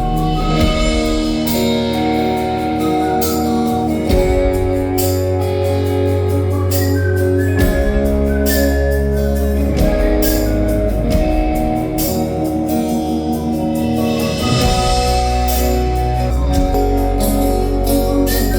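A band playing an instrumental passage of a song: sustained guitar chords over low bass notes, with drum hits marking a steady beat and no singing.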